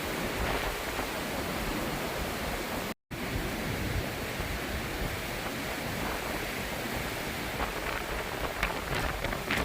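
Steady rush of storm wind and rain, with low rumbling wind buffeting on the microphone. The sound cuts out completely for a split second about three seconds in.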